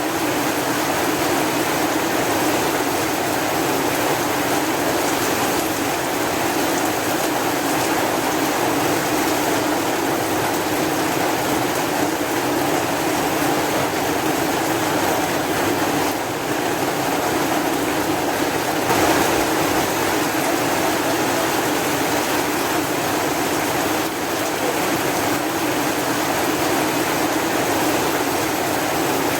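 Steady heavy rain: a continuous, even hiss of falling rain without thunder or distinct drops.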